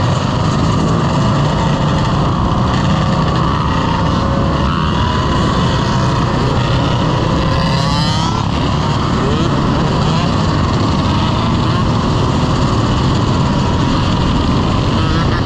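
Dirt bike engines running during a ride, heard under steady, loud wind noise, with a brief rising rev about halfway through.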